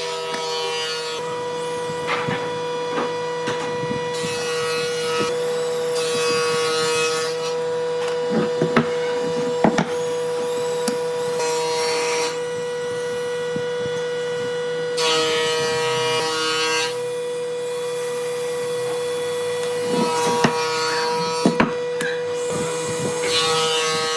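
Electric woodworking power tool running with a steady whine, cutting into wood in several passes of a couple of seconds each, with scattered knocks of wood being handled.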